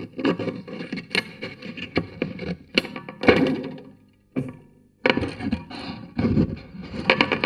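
Homemade noise box heard through a piezo contact microphone on its wooden lid: steel springs, wires, bolts and washers being plucked, scraped and struck in an irregular run of twangs and clicks. It stops for about a second in the middle, apart from one sharp hit, and then comes back just as busy.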